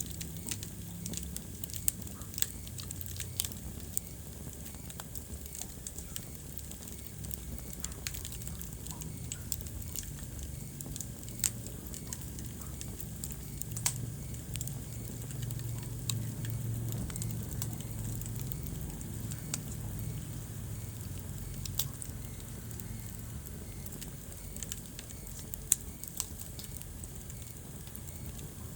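Wood fire in a fireplace crackling: irregular sharp pops and snaps, a few much louder than the rest, over a steady low rumble of burning flames.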